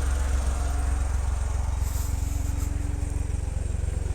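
Mini truck's engine running with a steady low drone.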